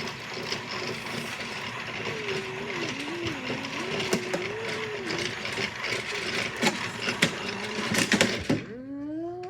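Toy washing machine running, its small motor whirring steadily, then cutting off about 8.5 seconds in.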